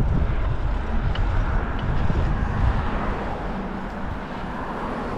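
Wind buffeting the microphone during an uphill bike ride, a gusty low rumble, with road or traffic noise underneath.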